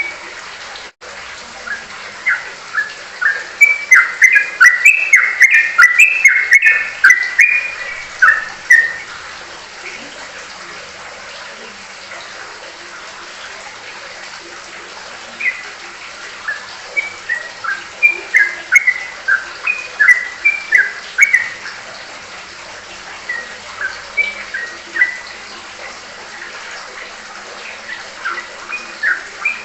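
A bird calling in rapid bursts of short chirping notes, several volleys with pauses of a few seconds between them, over a steady hiss.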